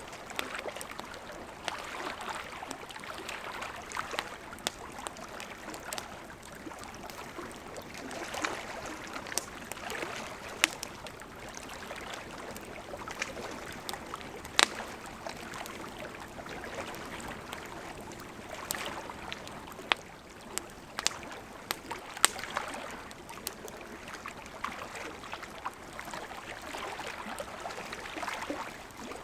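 Campfire crackling, with sharp irregular pops of burning wood, over the steady rush of a gently flowing river.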